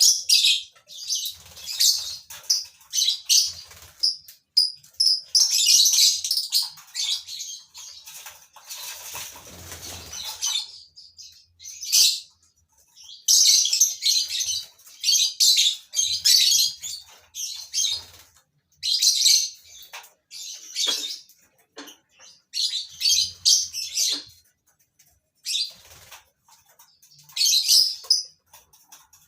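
Lovebirds in a colony chattering in repeated bursts of shrill, high chirps, with a spell of wing flapping about nine seconds in.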